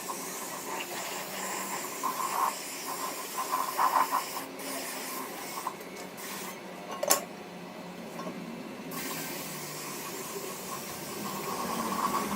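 Steady hiss of air or spray in a workshop, with one sharp click about seven seconds in.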